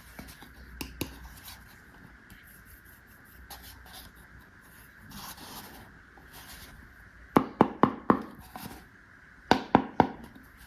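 Small plastic toy pieces being handled, with soft rustles and light clicks. Then two quick runs of sharp plastic clicks or taps, four and then three, each about four a second.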